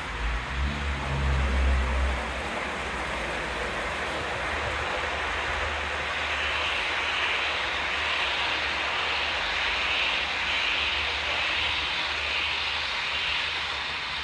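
Container freight train passing, hauled by a pair of locomotives: a deep rumble for the first couple of seconds, then a steady rush of wheels on rail.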